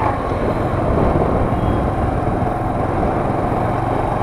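Moped engine running steadily.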